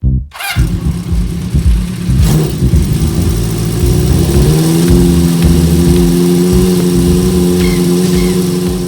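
Daihatsu Copen Robe's 660 cc turbo three-cylinder engine revving, its pitch climbing about halfway through and then holding at steady revs.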